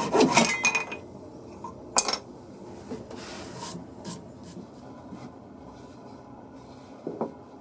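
Saw cutting wood with rapid, even strokes that stop about a second in; then a sharp clink about two seconds in, a brief scrape, a few light taps and a knock near the end as wood and tools are handled.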